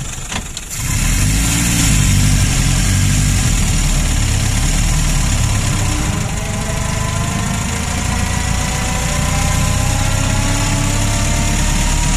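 The 1932 Citroën C4F's four-cylinder engine pulling the car along, heard from inside the car. It gets louder about a second in. A whine rises slowly in pitch through the second half as the car gathers speed.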